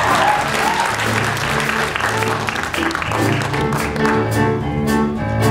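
Audience applauding while the band plays an instrumental vamp; the band's sustained chords and steady beat come through more clearly toward the end.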